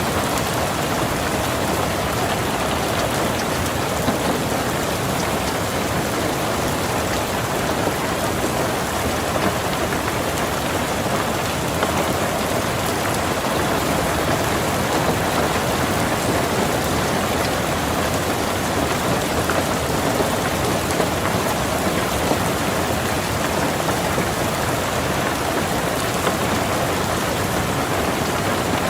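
Steady rain falling on a car, heard from inside the cabin: a dense, even hiss of rain with many small drop ticks.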